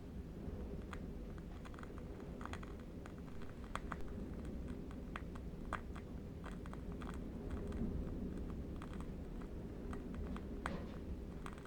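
Faint crackling of a burning candle wick: irregular soft clicks, several a second, over a low steady rumble of distant wind.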